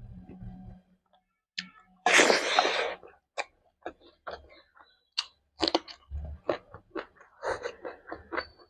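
Close-up mouth sounds of a person chewing a handful of rice with egg and curry: wet lip smacks and clicks, many in quick succession. About two seconds in there is a loud, noisy burst lasting about a second.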